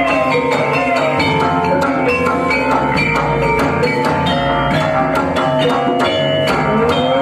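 Live Javanese gamelan music for an ebeg dance: struck keyed instruments ring sustained notes over steady drum strokes, with a rising pitch glide near the end.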